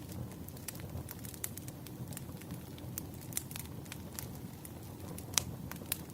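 Firewood burning with a steady low rumble and frequent irregular sharp crackles and pops, one louder pop about five seconds in.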